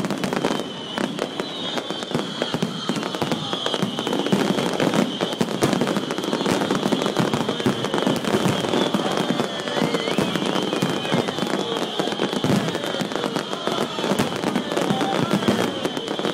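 Aerial fireworks display: a dense, unbroken run of bangs and crackling from many shells bursting in quick succession.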